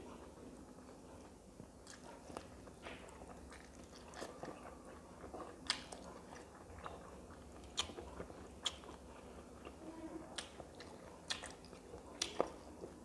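Chewing and biting of rice and fried fish eaten by hand, with sharp mouth clicks about every second.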